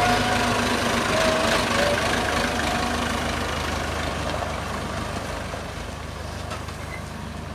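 An engine running steadily, growing gradually fainter.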